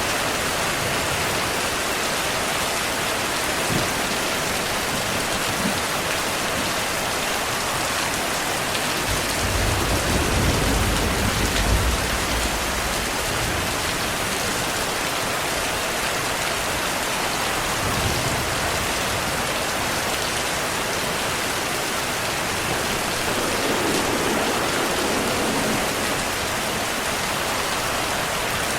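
Heavy steady rain with a low rumble of thunder rising and fading about a third of the way in, and fainter rumbles later.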